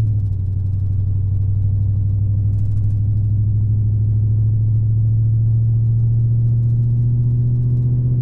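Dodge Charger Scat Pack's 6.4-litre Hemi V8 running steadily under a light cruise, a deep, even drone heard from inside the cabin.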